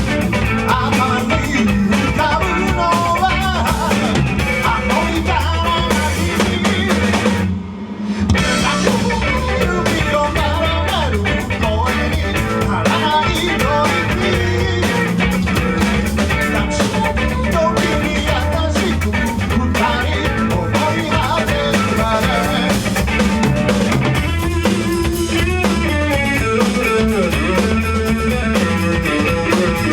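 Live rock band playing an instrumental passage with a drum kit and guitars, no vocals. The band stops for a moment about seven and a half seconds in, then comes straight back in.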